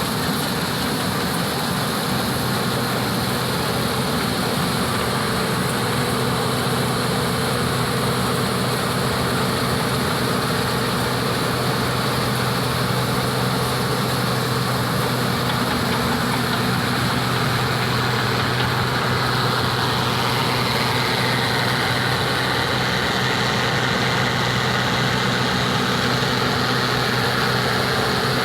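An engine running steadily at an even speed, giving a constant hum without breaks.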